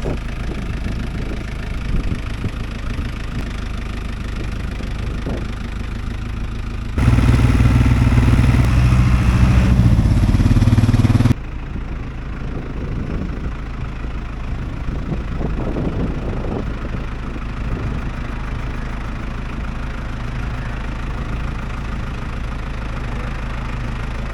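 Farm tractor's diesel engine running steadily. For about four seconds midway it is much louder, starting and stopping abruptly.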